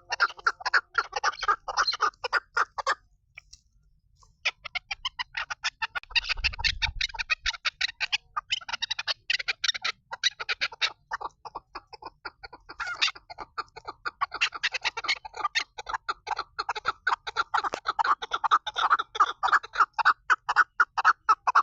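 Female chukar partridge (chakor) calling: a fast run of short, clucking chuck notes, about six a second, breaking off briefly about three seconds in, then going on again.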